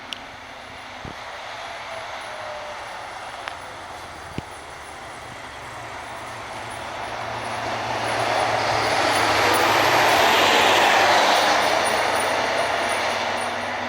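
A Kenworth T370/Pierce fire engine drives past: a rush of diesel engine and tyre noise builds over several seconds, peaks about ten seconds in, then begins to fade.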